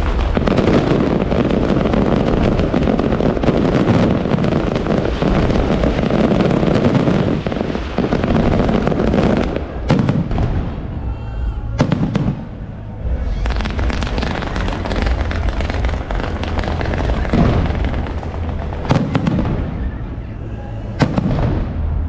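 Fireworks display: a dense run of bangs and crackling, a short lull about ten seconds in, then more bursts with a few sharp cracks near the end.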